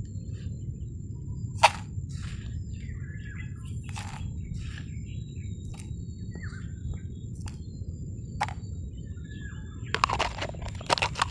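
Small birds chirping in short scattered calls over a steady low rumble, with a few sharp knocks and, near the end, a quick cluster of clicks and scrapes.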